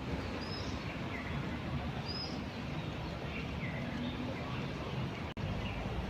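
A few short high bird chirps over a steady low rumble of outdoor background noise, with a brief drop in sound about five seconds in.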